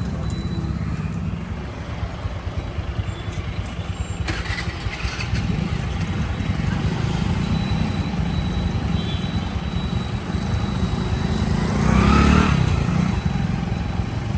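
Motorbike engine running steadily on the road. About twelve seconds in, a louder vehicle passes close by, its pitch rising then falling.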